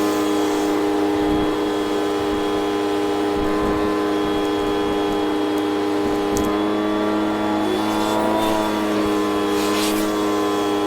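Hoover vacuum cleaner running steadily with a steady motor whine, its pitch dipping slightly and recovering about eight seconds in.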